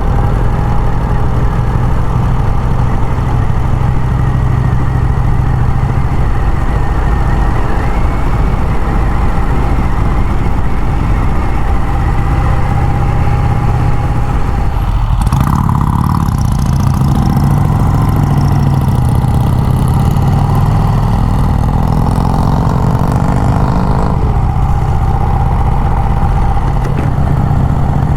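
Vincent Rapide 998 cc V-twin motorcycle engine running under way, with wind and road rush. About halfway through, the hiss grows and the engine pitch climbs for several seconds, then it settles back to a steady cruise.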